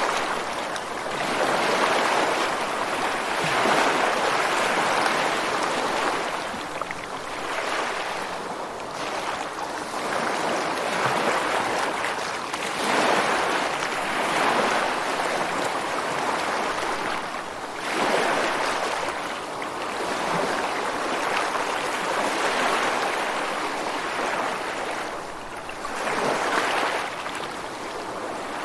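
Ocean waves breaking and washing onto a beach, a continuous rush of surf that swells and eases every few seconds as each wave comes in.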